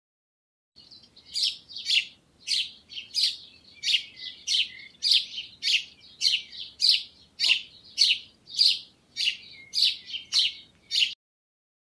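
Nuthatch calling: a sharp, high chirping note repeated steadily about one and a half times a second, cutting off abruptly near the end.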